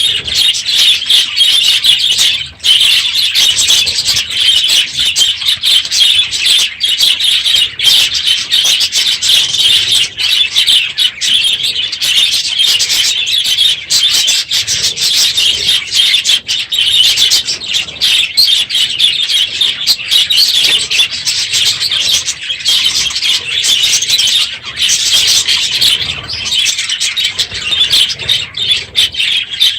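A large flock of budgerigars chattering and chirping loudly and continuously, many birds calling at once.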